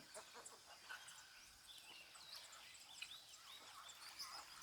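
Several birds chirping and whistling faintly, with short calls and curving whistled notes overlapping over a steady background hiss.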